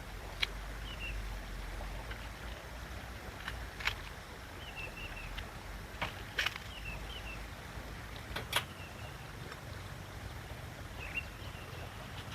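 Small birds chirping in short repeated calls over a low steady outdoor rumble, with a sharp knock or crack every couple of seconds, about five in all.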